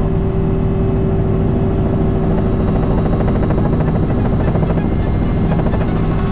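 Robinson R66 turbine helicopter in flight, heard from inside the cockpit: a steady, loud drone of rotor and drivetrain with a thin high whine above it.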